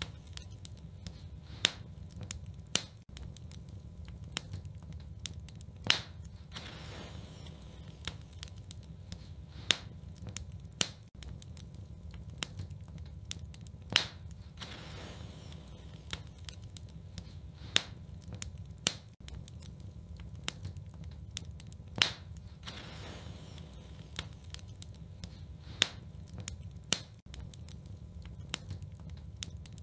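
Wood fire burning in a fireplace: a steady low rumble with scattered crackles and sharp pops, the louder pops coming every few seconds.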